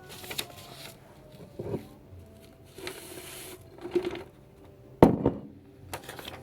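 Pressed flake pipe tobacco being crumbled and rubbed between the fingers, giving short bursts of soft rustling and scraping, with a sharp knock about five seconds in.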